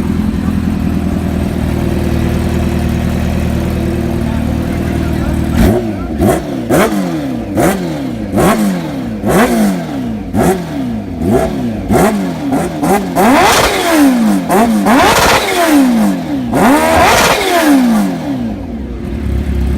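A 2018 Kawasaki H2R's supercharged inline-four idling, then, about six seconds in, revved hard in a quick series of blips, each rising and falling in pitch. Near the end come a few longer, higher revs before it drops back to idle.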